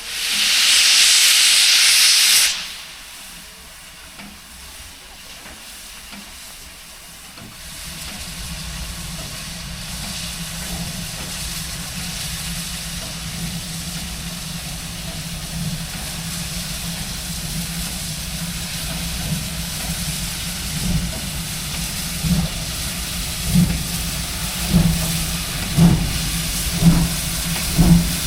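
Class 01 steam locomotive 01 066 venting a loud hiss of steam for about two and a half seconds. After a quieter spell, a low running rumble rises, with exhaust chuffs about once a second growing louder near the end as the locomotive starts off.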